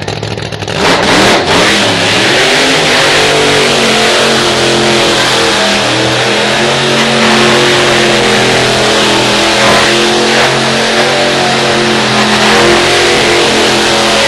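Supercharged V8 of a 2000 hp Chev burnout car revving hard through a burnout. About a second in the revs climb sharply, then stay high and wavering, with the hiss of the rear tyres spinning.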